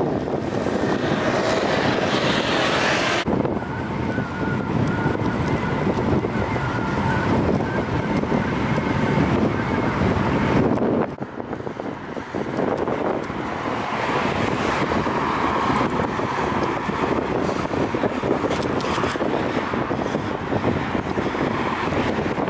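Wind rushing over the microphone of a moving rider, mixed with road traffic passing, with a short lull about halfway through.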